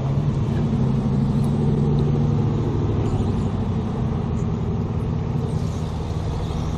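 Road traffic: car engines running and passing in a steady rumble.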